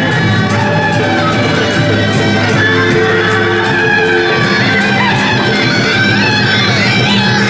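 A procession music troupe playing traditional ensemble music: bowed strings carry held, sliding notes over plucked strings, with a steady tick of light percussion.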